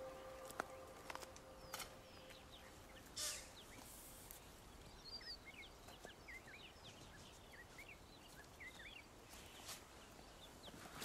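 Faint rainforest ambience: many short, high bird chirps scattered throughout, with a few sharp clicks or rustles, the loudest about three seconds in.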